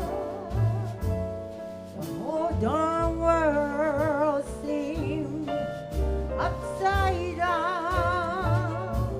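Female jazz vocalist singing a ballad melody live, holding long notes with a wide vibrato, over a small band with steady low bass notes.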